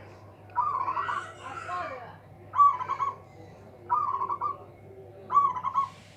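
Zebra dove (perkutut) cooing: four short phrases, each a quick run of bubbling notes, spaced about one and a half seconds apart.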